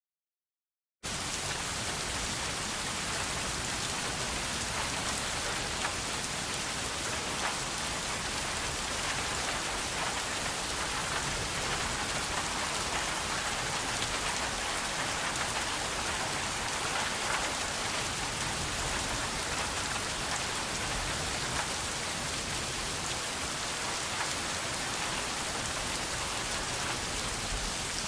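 Steady rain falling, with individual drops audible as faint scattered ticks. It starts abruptly about a second in and then holds even.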